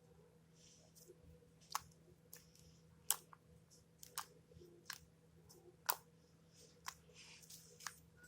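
Slime being handled, squished and poked, giving faint, irregular sharp clicks and pops, about one a second, between soft squishing sounds.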